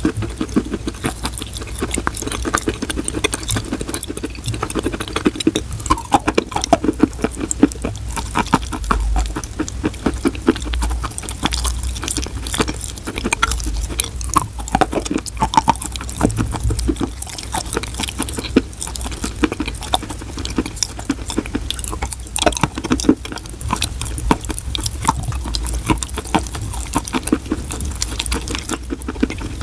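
Chalk being chewed close to a microphone: a dense, steady run of small crunches and crackles mixed with wet, pasty mouth sounds.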